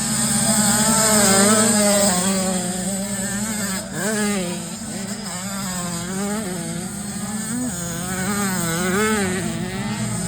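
Motocross motorcycle engines running, the pitch rising and falling over and over as the riders open and close the throttle, with one sharp rev about four seconds in.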